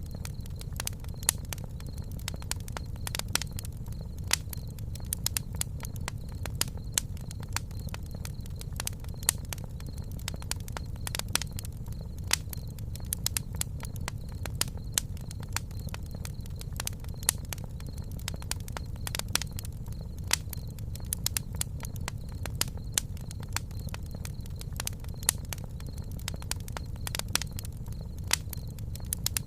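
Campfire crackling: frequent irregular pops and snaps of burning wood over a steady low rumble from the flames.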